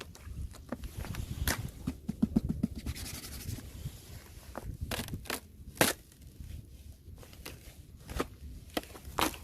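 Thin fresh ice cracking and crunching: a string of sharp snaps with scraping and crackling between them, the loudest snap a little past the middle.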